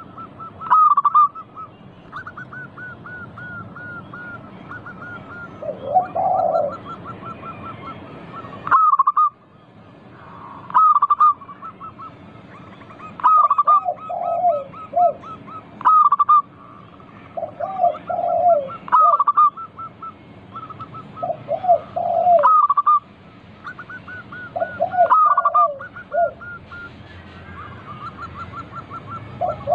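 Zebra doves (perkutut) singing their cooing song, with a phrase every two to three seconds. Lower-pitched notes join about a third of the way in.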